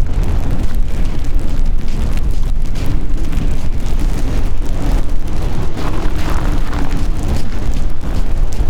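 Blizzard wind buffeting the microphone: a loud, steady, heavy rumble with gusty noise over it.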